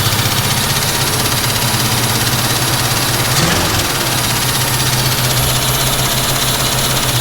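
1967 Ford Mustang engine idling steadily with its valve cover off. Only the usual valve and lifter noise is heard, with no ticking, a sign that the tick came from a rattly PCV valve.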